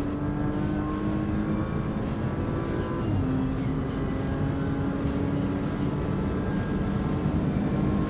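Car engine running at steady high revs with road noise, heard from inside the car. Its note drops once with a short thump about three seconds in, like a gear change, then holds steady.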